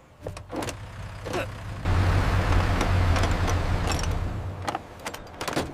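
Road roller engine sound effect, starting up about two seconds in and running with a low steady rumble for about three seconds. A few sharp clicks come before it and again near the end.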